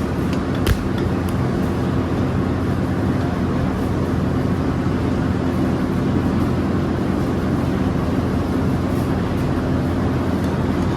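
Steady low drone of heavy factory machinery running, with one sharp knock a little under a second in.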